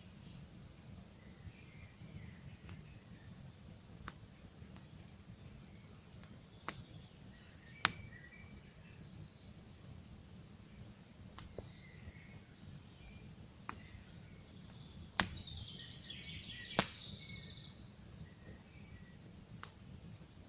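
Wood campfire crackling, with sharp pops every second or two over a steady low rumble; a few pops stand out louder. Small birds chirp repeatedly in the background.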